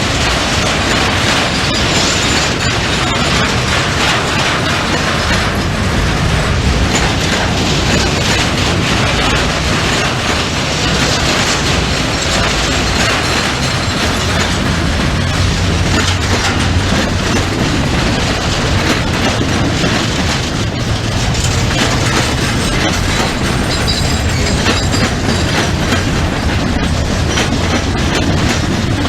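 Freight train of container wagons rolling past at steady speed, the wheels running over the rails in a continuous, even noise.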